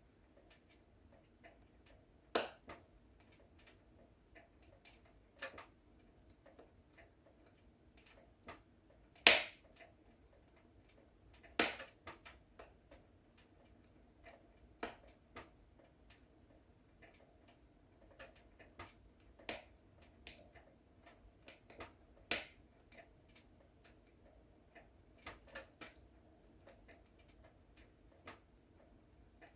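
Wood fire in a fireplace crackling, with irregular sharp snaps and pops over a faint low hiss; the loudest pop comes about nine seconds in.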